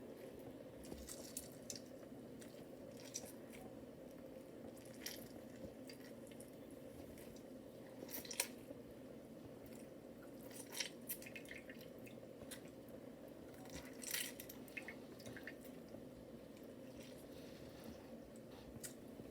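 Faint scattered drips, squishes and small clicks from a cut lemon being handled and its juice and seeds dripping into the sauce bowl, over a steady low hum.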